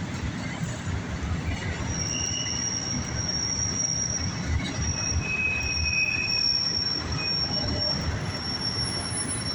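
Freight cars of a passing CSX train rolling by with a steady low rumble, and a thin high-pitched wheel squeal that sets in about two seconds in and holds on.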